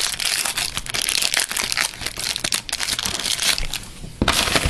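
Crinkling and tearing of a trading-card pack wrapper being opened by hand, with a louder crackle about four seconds in.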